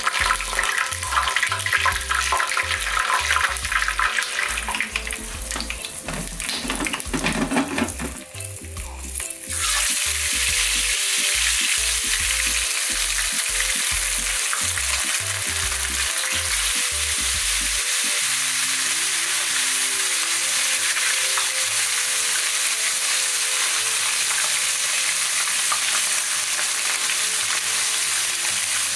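Fish and a whole hot pepper frying in hot oil in a non-stick frying pan. The oil crackles and spits irregularly at first, then from about ten seconds in settles into a louder, steady sizzle.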